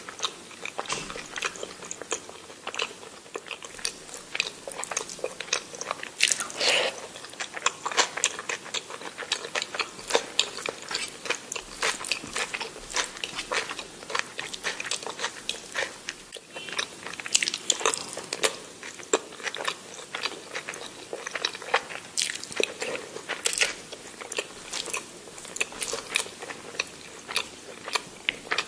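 A person chewing and biting food: a dense, irregular run of sharp wet clicks with occasional crunches.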